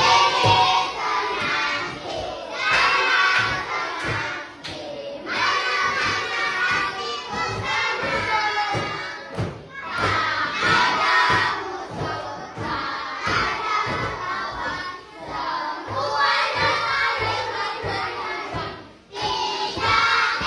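A group of children shouting together in stretches of a few seconds with short breaks between, over frequent thumps.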